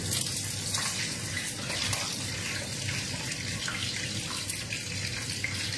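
Chicken pieces deep-frying in hot oil: a steady sizzle with small scattered crackles.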